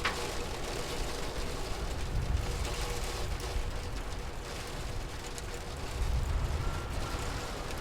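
Steady rain ambience, an even hiss of falling rain, with a low rumble that swells twice and fades.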